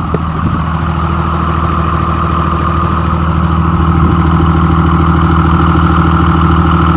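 Cummins diesel engine of a 2001 Sterling dump truck idling steadily, getting somewhat louder over the first few seconds; the engine sounds good.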